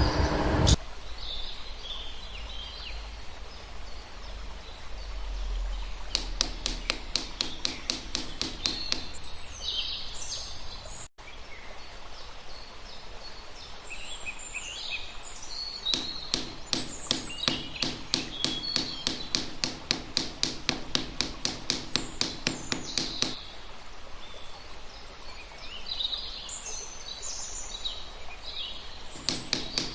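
Rapid rhythmic knocking on wood, about five strokes a second, in runs of several seconds, with birds chirping in between.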